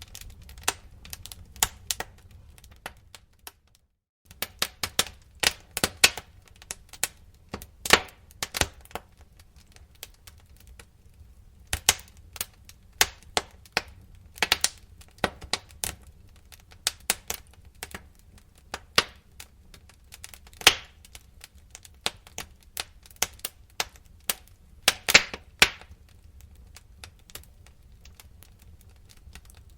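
Wood fire crackling, with irregular sharp pops and snaps over a steady low rumble. The sound drops out briefly about four seconds in.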